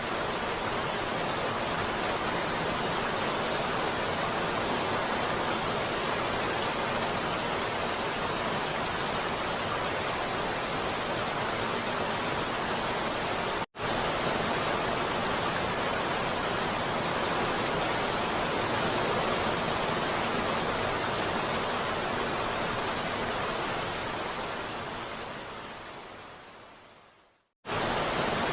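Heavy rain as a steady, even hiss. It cuts out for an instant about halfway through, then near the end fades away to silence over a few seconds and comes straight back at full level.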